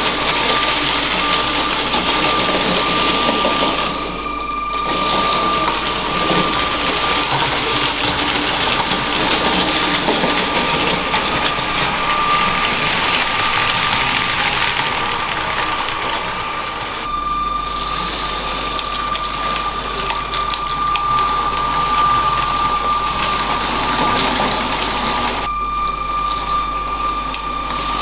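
Motorized LEGO train running: the steady whine of its small electric motor and gearing over the rattle of plastic wheels on plastic track, with a few sharp clicks in the second half.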